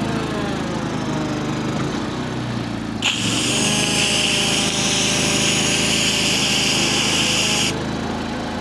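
A small engine running steadily. About three seconds in, a pressure washer's spray starts with a sudden loud hiss of high-pressure water, holds steady for about four and a half seconds, then cuts off.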